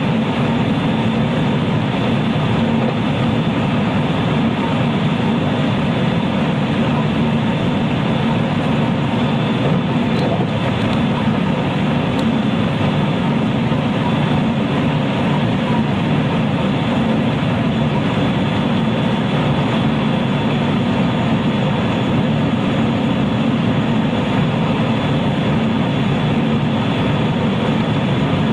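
Running sound heard inside a JR West 223 series electric multiple unit motor car travelling at a steady pace: an even rumble of wheels on rail with thin, steady motor tones above it. There is no change in pitch.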